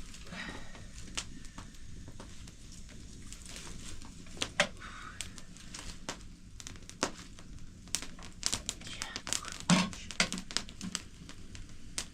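Crinkling and rustling handling noise, broken by many sharp clicks and knocks; the loudest knocks come about four and a half seconds in and near ten seconds in.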